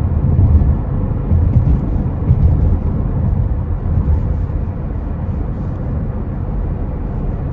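Tyre and road noise heard inside a 2025 Tesla Model X cabin at freeway speed: a steady low rumble, a little louder in the first few seconds.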